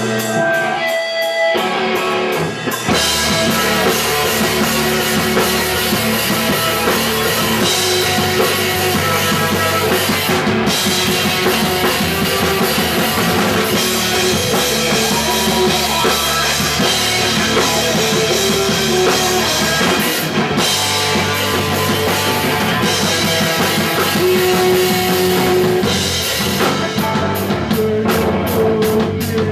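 Punk rock band playing live: drum kit, distorted electric guitars and bass. The full band comes in about three seconds in, and near the end there is a quick run of drum hits.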